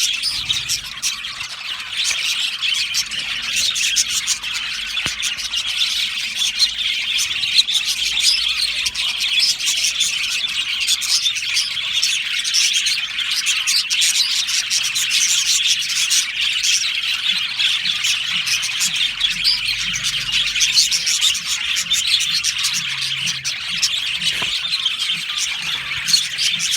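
A colony of budgerigars chattering and chirping together, a dense, continuous mix of warbles and short sharp calls.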